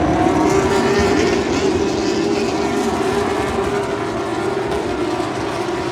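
Porsche 911 GT3 Cup race cars in a pack running past at speed with their flat-six engines at high revs, a continuous engine drone that eases slightly after about a second and a half.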